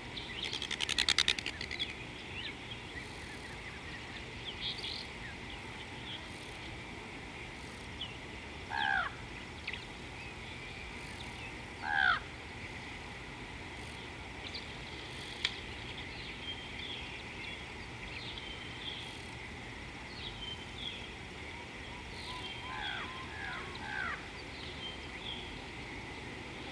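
Wild birds calling: many short high chirps throughout, a loud rapid rattle about a second in, two loud falling calls around nine and twelve seconds in, and a cluster of calls near the end, over a steady background hiss.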